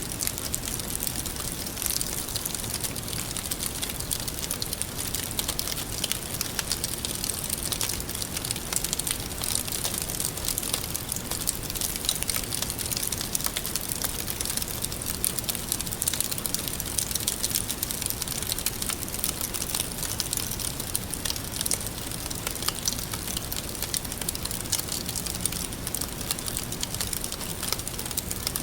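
Wood fire burning with a steady hiss and continuous crackling.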